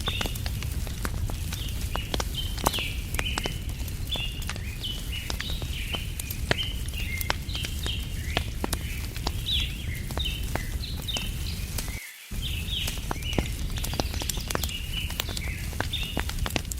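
Wood fire crackling with frequent sharp pops, over a steady low rumble, while small birds chirp constantly. The sound cuts out for a moment about three-quarters of the way through.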